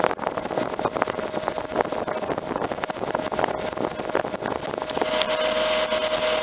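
Mightykool K2 portable 12-volt evaporative cooler's fan running and blowing air, with a steady whine over a crackling rush that smooths into an even hiss about five seconds in.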